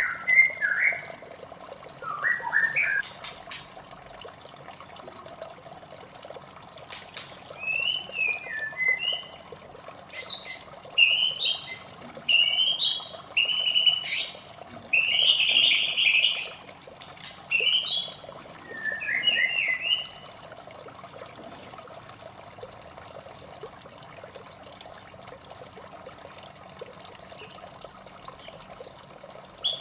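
White-rumped shama (murai batu) singing short, varied whistled phrases over a steady sound of running water. The song falls silent about two-thirds of the way through, leaving only the water.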